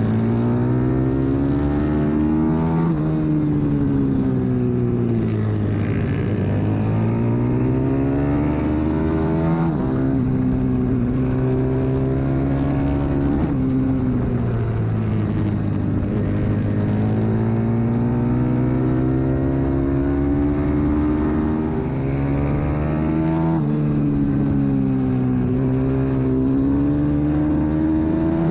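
125cc single-cylinder four-stroke pit bike engine at race pace, revving up through the gears with the pitch rising and then falling back on each shift or braking for a corner, about half a dozen times.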